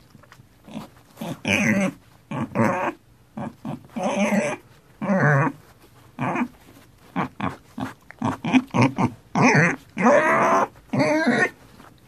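Wild boar piglets calling over and over in short pitched calls, about one a second, with a few longer calls near the end.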